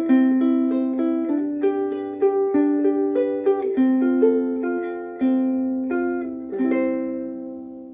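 Pono Kalele soprano ukulele with Aquila Reds strings and a low G, a melody picked note by note on the treble strings. The last note, struck about two-thirds of the way through, rings on and fades slowly, showing the long sustain.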